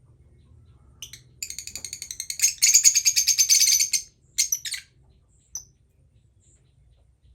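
Small pet parrot calling: about a second in, a rapid run of high chirps builds into a loud burst of chattering lasting about a second and a half, followed by a few short chirps and one last chirp.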